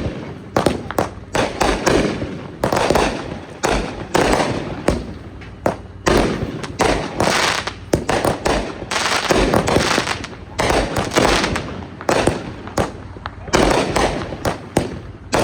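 Fireworks going off: a dense, continuous run of sharp bangs and crackling, several reports a second.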